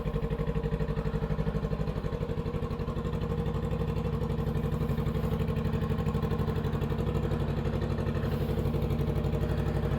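Honda Rebel 500's parallel-twin engine idling steadily, an even low pulse with no revving.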